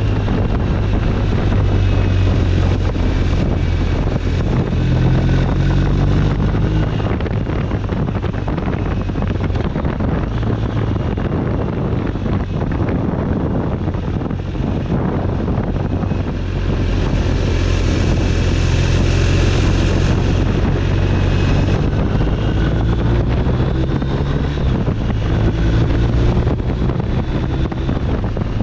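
BMW R1250 RT's 1254 cc boxer-twin engine running at road speed, its note rising and falling with the throttle, under steady wind noise on the microphone that swells for a few seconds past the middle.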